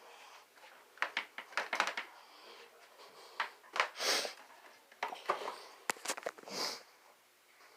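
Scattered clicks and knocks with a few short hissing rustles, about four and six and a half seconds in, in a small room.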